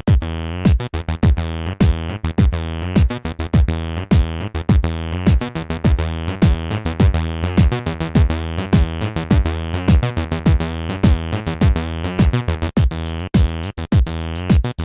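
A sequenced acid bassline from two Behringer TD-3-MO synthesizers playing in unison, notes changing several times a second with the resonant filter sweeping down on each one, dry with no effects. A Roland JD-Xi drum machine beat plays under it, and a brighter high percussion pattern comes in near the end.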